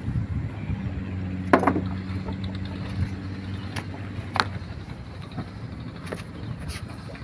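A ferry's engine running with a steady low hum, and a few sharp knocks over it, the loudest about one and a half seconds in and another at about four and a half seconds.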